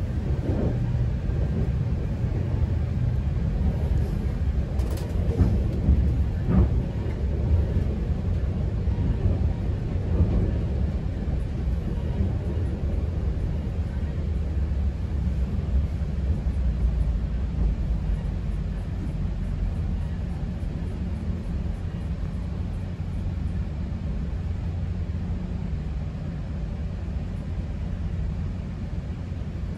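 Low, steady rumble of a GO Transit commuter train heard from inside a passenger coach, with a few sharp clicks and knocks in the first several seconds. The rumble eases gradually through the second half as the train slows into its terminal stop.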